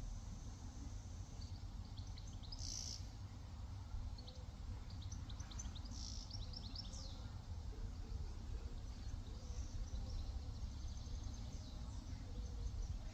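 Small birds chirping in quick short series, around two seconds in and again from about five to seven seconds, over a low steady outdoor rumble.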